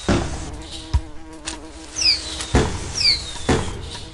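Cartoon fireworks sound effects: two whistling rockets falling in pitch and about four sharp pops of bursting fireworks.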